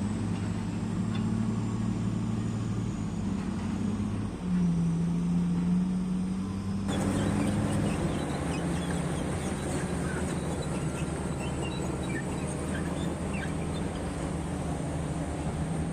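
Diesel engine of heavy mining equipment running steadily, its pitch shifting up and down a few times. About seven seconds in, a hiss suddenly joins it, and faint short chirps follow.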